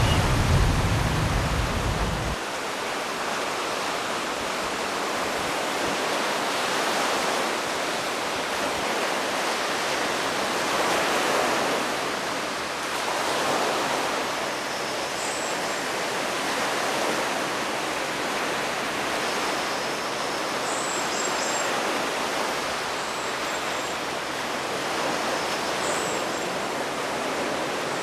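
Steady rushing of flowing water, like a stream or small waterfall, with a low rumble in the first couple of seconds that cuts off suddenly. From about halfway through, a small bird gives faint, short, very high calls four or so times.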